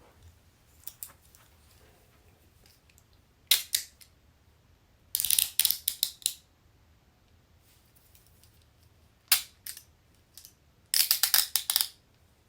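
Metal handcuffs being worked, twice over: a single sharp click, then a quick run of ratchet clicks as the cuff's swing arm is pushed through the lock.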